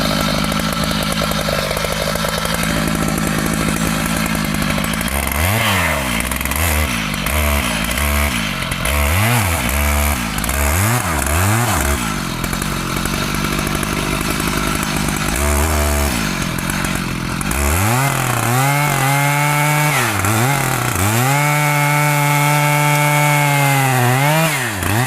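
Two-stroke chainsaw working on a mahogany tree. It runs steadily at high revs for the first five seconds, then is revved up and dropped back about once a second for several seconds. Later it is held at high revs again, with a brief dip around the twentieth second, and falls off at the end.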